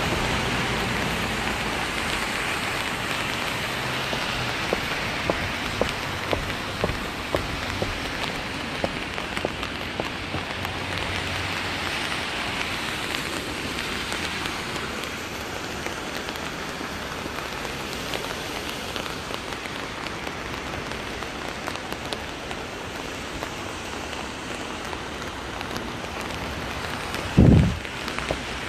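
Rain falling steadily, a continuous hiss with many individual drops ticking close by. Near the end there is one loud low thump.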